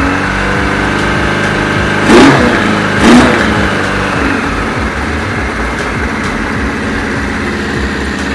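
Kawasaki KZ1000's air-cooled inline-four engine running after a carburettor rebuild, blipped twice in quick succession about two and three seconds in, then settling back to a steady idle.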